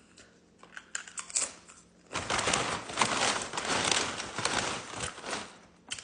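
Close-up crunching and chewing of a crisp tortilla chip, a few small clicks first, then about four seconds of dense, loud crackly crunching.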